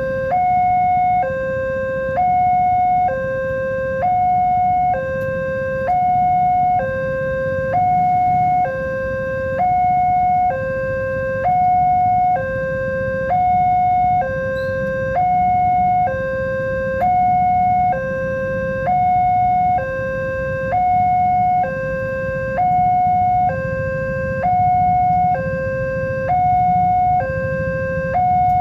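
Indonesian railway level-crossing warning alarm sounding as the gates close for a train. It is a loud electronic two-tone signal alternating between a low and a high tone about once a second, with a low rumble underneath.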